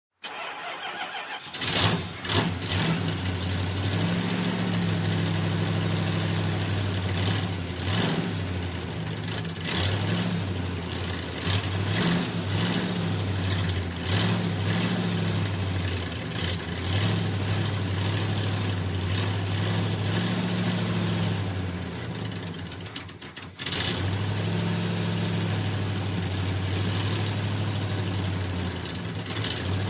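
1987 Ford F-150 pickup's engine starting after a short crank and catching, then running with short blips of the throttle every couple of seconds. About 23 seconds in it dies down and cuts out, then is started again and runs on.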